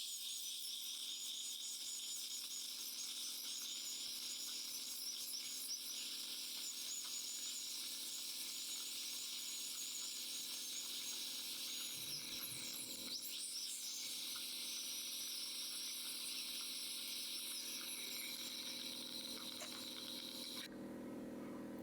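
High-speed dental drill (air-turbine handpiece) running with a steady high-pitched whine and hiss that wavers slightly. It cuts off suddenly near the end, leaving a low steady hum.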